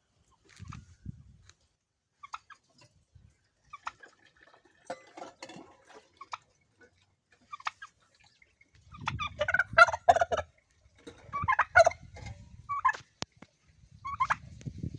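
Turkey gobbling: a few faint scattered calls, then several loud bursts of rapid, rattling gobbles in the second half.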